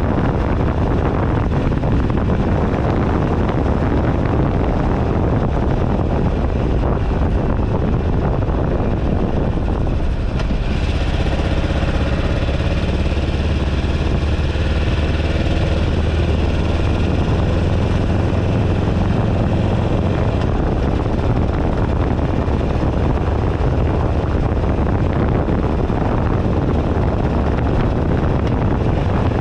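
2008 Buell Ulysses XB12XT's air-cooled V-twin engine running on the move, under heavy wind noise on the bar-mounted camera. For about ten seconds in the middle the engine's pitched note comes through more clearly.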